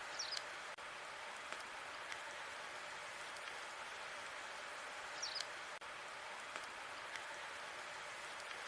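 Wood fire of burning logs crackling steadily, with scattered small pops. A short high squeak comes twice, just after the start and about five seconds in.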